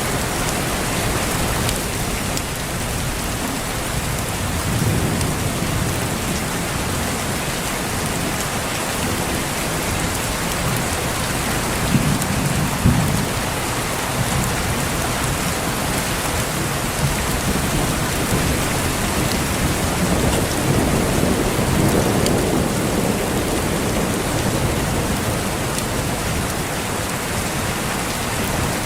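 Steady heavy rain with low rolls of thunder rumbling up several times, loudest about twelve seconds in and again past twenty seconds.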